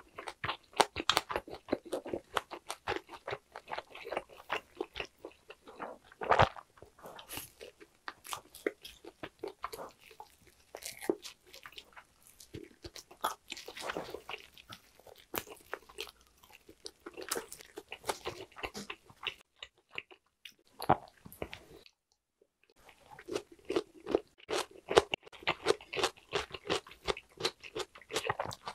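Close-miked eating sounds of grilled lamb skewer meat being bitten and chewed: a dense run of irregular wet clicks and smacks, which drop out briefly about three-quarters of the way through.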